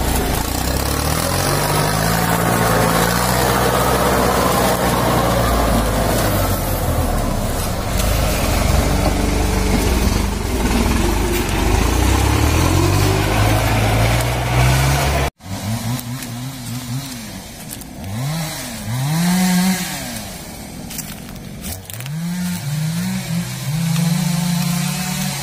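Kubota M8540 tractor's diesel engine running, its pitch rising and falling with the throttle. The sound breaks off abruptly about 15 seconds in, then an engine revs up and down in quick repeated swells, quieter.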